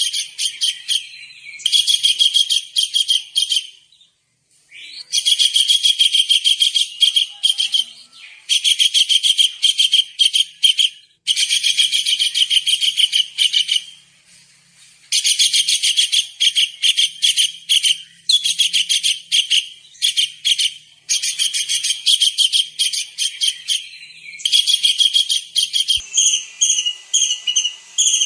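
Kingfisher (tengkek udang) calling in rapid runs of high, shrill notes, in bursts of a few seconds with short pauses between. Near the end the notes become longer and more whistled.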